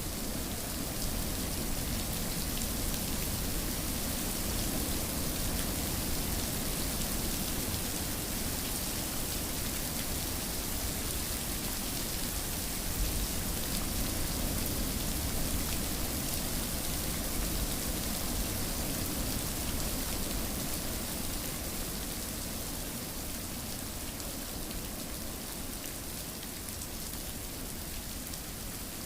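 Steady rain falling and pattering on surfaces, an even hiss with fine drop detail, played as continuous sleep background sound.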